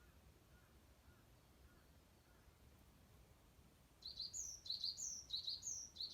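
Quiet background with faint soft chirps, then about four seconds in a bird starts singing close by: a quick series of repeated high double notes, each a short note followed by a higher falling one.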